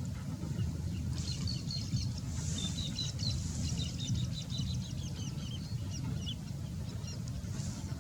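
A rapid run of short, high-pitched bird chirps, starting about a second in and fading near the end, over a steady low rumble.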